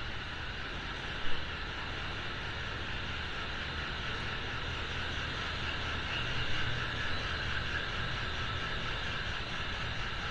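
Steady engine drone with one sharp knock about a second in.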